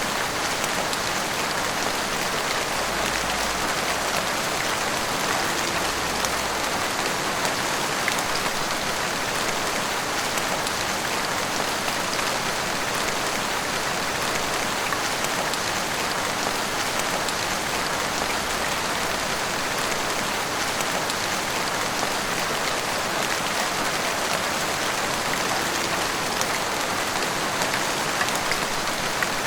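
Heavy rain pouring steadily, drops pattering densely on roofs and the street.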